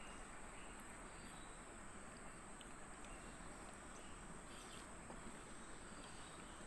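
Quiet ambience: a faint, steady, high-pitched insect drone, like crickets, over a low hiss, with a few faint ticks.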